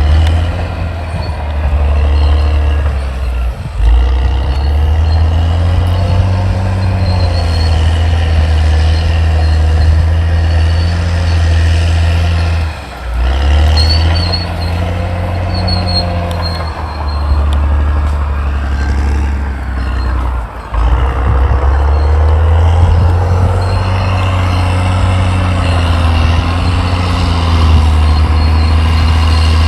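Caterpillar D6R XL bulldozer's diesel engine running under heavy load, its pitch rising and falling as it works, with brief drops in level three times.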